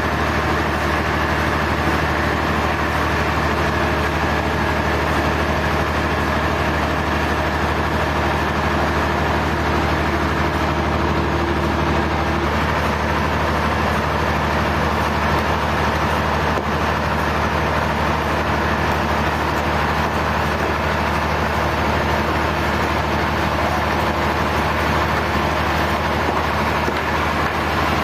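Sawmill machinery running steadily, a continuous low engine-like drone with no pauses.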